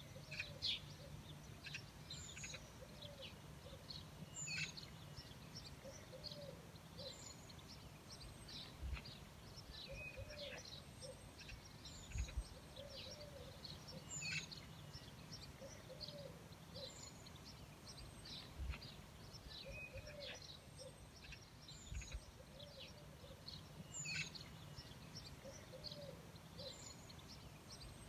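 Faint chirping and twittering of small birds over a low steady hum. The same stretch of birdsong repeats about every ten seconds, as in a looped recording.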